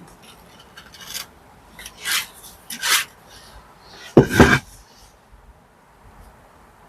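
Short hand-tool scraping strokes on brickwork: three light strokes, then a louder, fuller one a little after four seconds.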